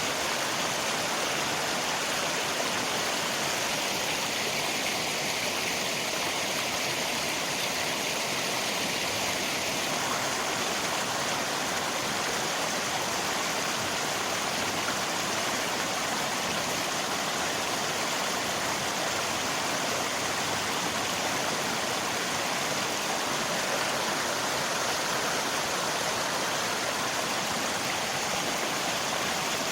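Steady, even rushing of river water mixed with rain, a continuous hiss with no distinct drops or events.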